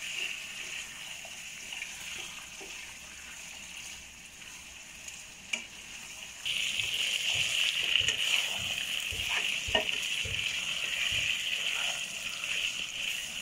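Chicken pieces sizzling in hot oil in a frying pan as they are stir-fried with a spatula. The sizzle gets suddenly louder about six and a half seconds in, and a few low thumps come a couple of seconds later.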